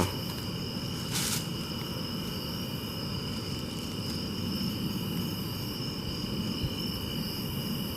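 Steady high trilling of night insects over a low outdoor rumble, with a short sharp rustle or click about a second in.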